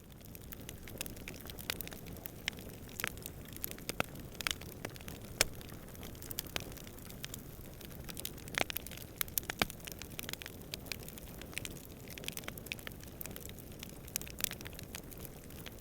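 Wood campfire crackling, with sharp snaps and pops at irregular intervals over a steady low rumble of distant wind.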